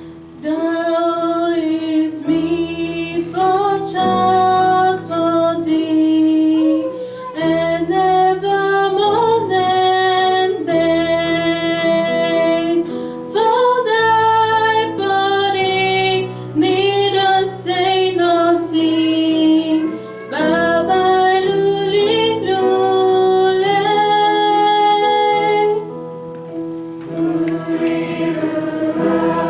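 A choir singing a slow Christmas carol with long held notes over sustained accompanying chords, pausing briefly between phrases.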